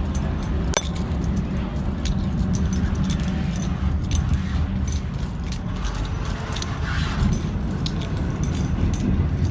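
Steady low rumble of a locomotive-hauled H-set passenger carriage running along the track, with frequent light rattles and clicks from the carriage.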